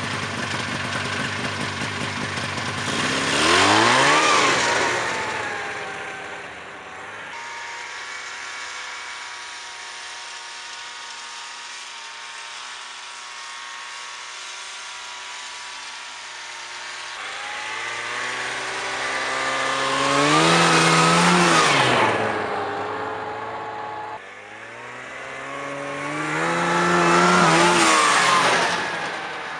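Buran snowmobile's two-stroke RMZ-640 twin, fitted with an aftermarket tuned exhaust pipe, running at mid to higher revs as it drives past three times, louder each time it comes near and dropping in pitch as it goes by. Between passes it runs steadily and more faintly further away.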